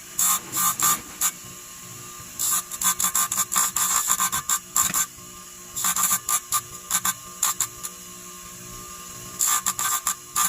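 A small power tool run in short bursts, starting and stopping a dozen or more times with a high whine, over a steady low hum.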